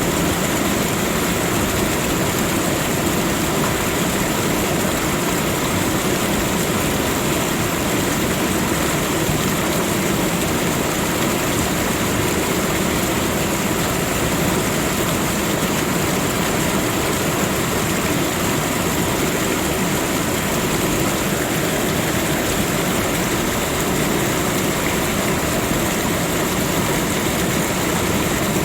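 Steady rushing of running water, an even noise that does not change.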